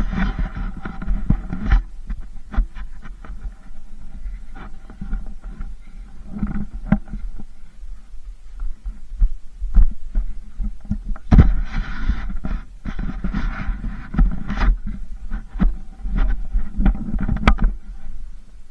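Eating a banana close to the microphone: irregular chewing clicks and soft low thumps.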